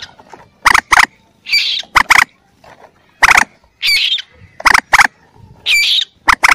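Recorded calls of young mandar (common moorhen chicks) played as a hunting lure: sharp clicking notes, often in pairs, alternating with about three short high squeaky calls, in a repeating pattern.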